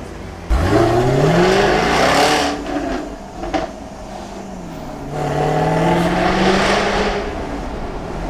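Jaguar F-Type R's supercharged V8 and exhaust pulling hard, its note rising steeply from a sudden start. It eases off with a sharp exhaust crack, then climbs again in a second pull.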